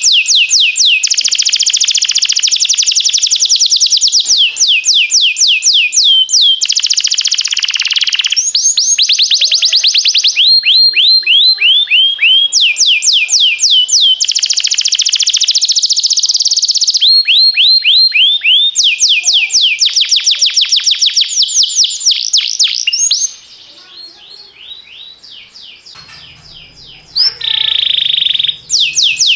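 Domestic canary singing: fast trills of rapidly repeated sweeping notes, one roll after another with changes of note type every few seconds. About three quarters through the song drops to a softer passage, then the loud trilling resumes near the end.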